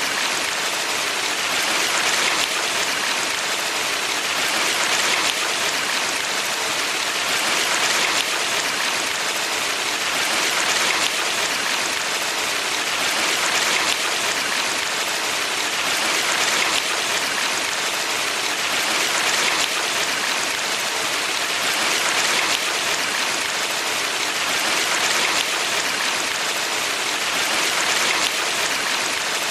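Mountain valley stream rushing steadily, a dense, even hiss of running water that gently swells and eases every few seconds.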